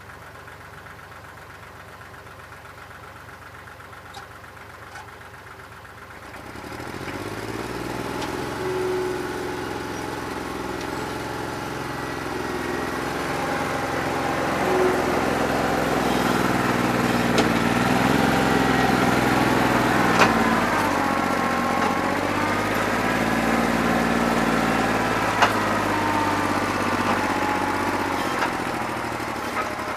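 A New Holland 1320 tractor's diesel engine, which has a bad injector, idling quietly. About six seconds in it gets much louder, with the engine speed rising and swinging up and down, and a few sharp clicks on top.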